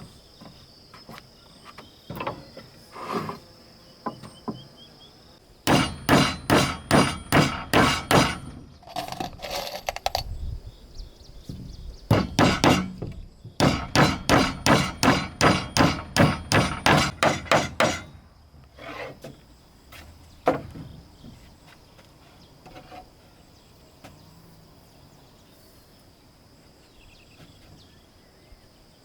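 Two runs of quick hammer blows on wood, about four a second and each lasting a few seconds, with a few separate knocks before, between and after. A steady high insect buzz runs underneath.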